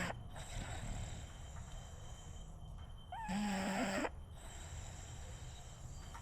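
French bulldog snoring in its sleep: one loud snore about three seconds in, lasting about a second.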